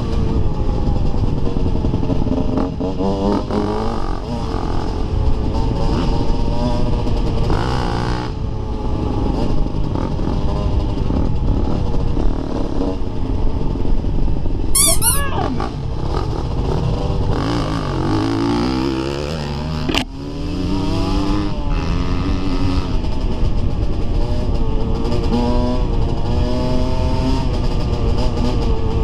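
Dirt bike engine running on a trail ride, its pitch rising and falling again and again as the rider works the throttle and gears. A brief high warbling squeal comes about fifteen seconds in, and a sharp knock about twenty seconds in.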